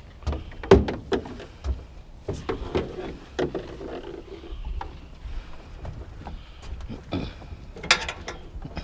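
Irregular knocks, clunks and rattles of scrap items being shifted and wedged into place in a load. The loudest knock comes a little under a second in, and another clatter comes near the end.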